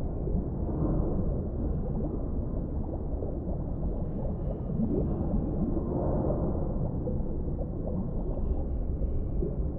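Deep-sea underwater ambience: a steady, muffled low rumble with soft, irregular bubbling through it.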